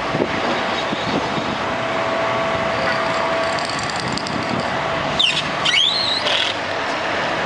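Road traffic running steadily past, with a brief rising squeal about five seconds in.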